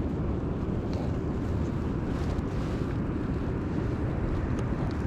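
Steady low rumbling of wind buffeting the microphone.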